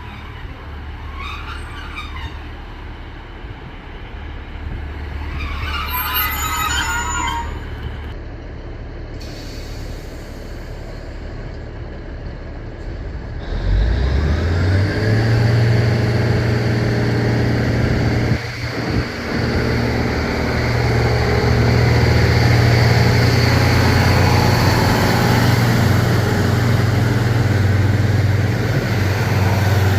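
Diesel multiple-unit train at a platform: two brief high squeals over a low rumble in the first few seconds, then about 13 seconds in its diesel engine revs up with a rising note and runs loud and steady under power, dipping briefly a few seconds later.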